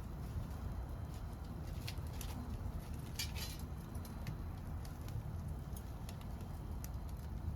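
Wood fire crackling, with scattered sharp pops and a small flurry of crackles about three seconds in, over a steady low rumble.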